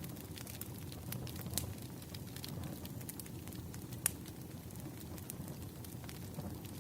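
Wood fire burning: a steady low rushing with scattered sharp crackles and pops, one louder pop about four seconds in.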